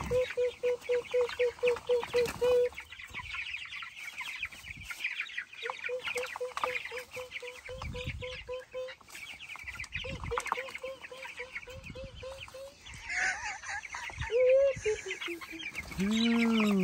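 A flock of three-week-old Cornish Cross chicks peeping constantly in quick, high chirps. Three runs of evenly spaced lower notes, about four a second, sound over the first two thirds, and a few louder rising-and-falling calls come near the end.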